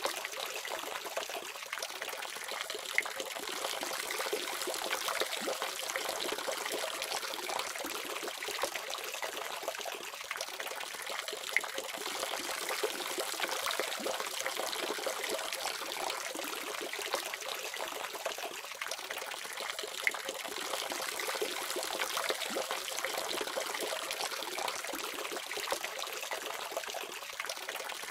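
Water running steadily from a faucet, an even splashing trickle, with a few brief sharper splashes.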